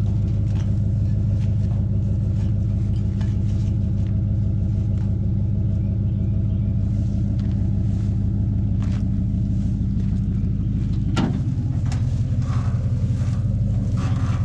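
A vehicle's engine running steadily at low speed while the car is eased onto the trailer. About eleven seconds in there is a sharp knock and the engine note drops a little and turns rougher.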